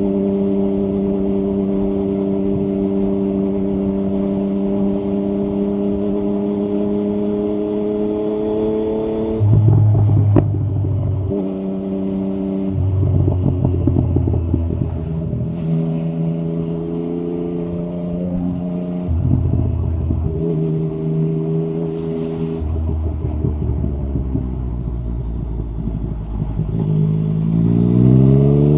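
Yamaha MT-09 SP's inline three-cylinder engine through an Akrapovic carbon exhaust with the dB killer removed, running at steady revs. After about nine seconds the revs drop and the engine note shifts up and down several times at lower revs. Near the end it revs up with a rising note.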